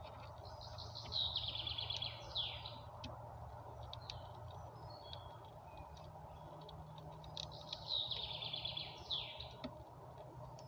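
A songbird singing two phrases, each a fast high trill that ends in a quick downward flourish, with a few faint short chirps between them, over a steady low background hum.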